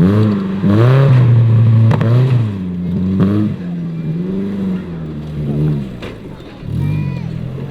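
Off-road 4x4's engine revving up and down over and over, the pitch swooping every second or so. It is loudest in the first two seconds and drops back later.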